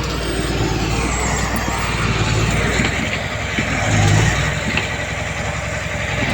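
Heavy diesel earthmoving machinery running under load, with a steady low engine rumble and some clatter; the engine swells briefly about four seconds in.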